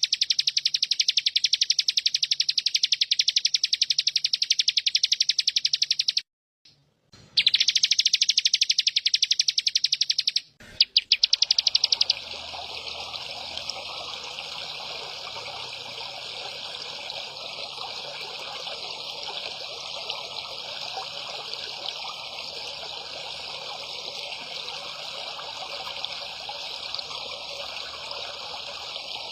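A small songbird sings a very fast, loud, high trill of rapid repeated chirps, broken off twice in the first twelve seconds. After that comes a steady, quieter hiss like trickling water.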